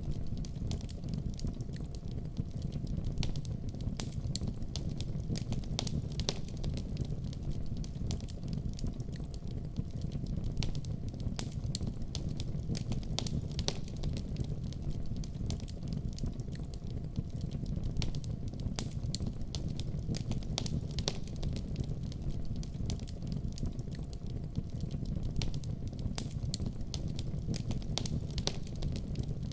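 Wood fire burning in a fireplace: a steady low rumble of flames with frequent irregular crackles and pops of the burning wood.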